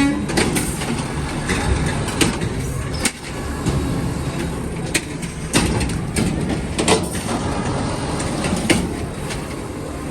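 AMREP garbage truck running, heard from inside: a steady low rumble with frequent clanks and rattles throughout.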